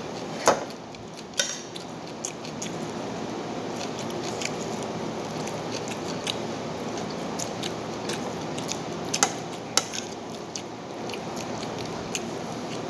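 Close-up chewing and mouth noises of a person eating rice and bihon noodles by hand, with a few sharp clicks scattered through, the loudest near the start, over a steady background hum.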